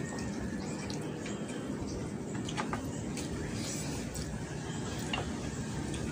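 Eating sounds: chewing and mouth smacking, with small scattered clicks as fried chicken is pulled apart by hand, over a steady low background hum.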